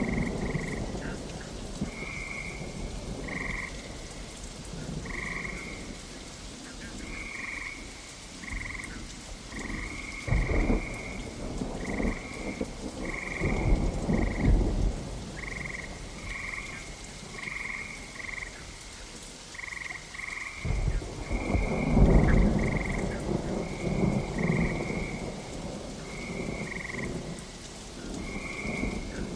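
Frogs croaking over and over in short calls, one or two a second, over steady rain. Thunder rolls low and long twice, about a third of the way in and again past the middle.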